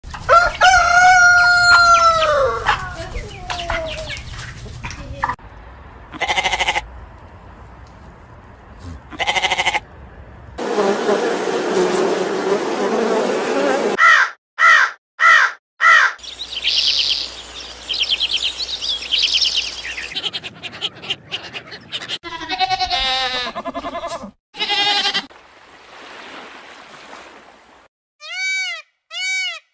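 A string of separate animal calls, opening with a rooster crowing in one long call that falls in pitch at its end, followed by shorter calls and clucking from other farm animals and birds, with four short evenly spaced calls near the middle and a run of short repeated calls near the end.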